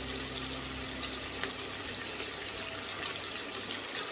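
Onions and green chillies sizzling in hot oil in the base of a pressure cooker: a steady frying hiss.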